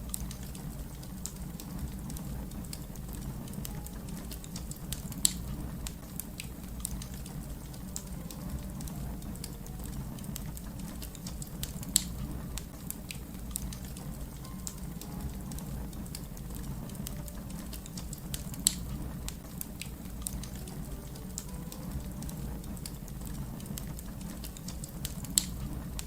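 Wood fire crackling: a steady low rumble under many small scattered crackles, with four louder sharp pops spread through.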